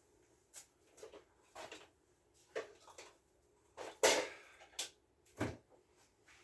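Scattered knocks and clatters from an inline duct fan and its housing being handled and worked into place. They are irregular and short, and the loudest comes about four seconds in.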